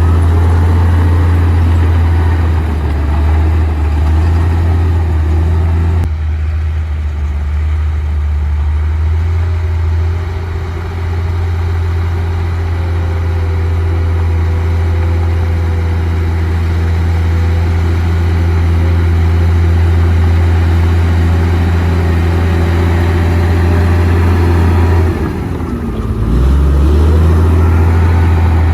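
Komatsu D58P bulldozer's diesel engine running steadily with a deep hum. Near the end the note drops briefly and climbs back up.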